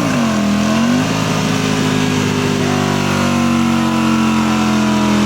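Ducati V4 motorcycle engine through a CS Racing aftermarket exhaust, running hard under load. Its pitch drops suddenly at the very start, as at a gear change, then rises slowly and steadily as the revs climb.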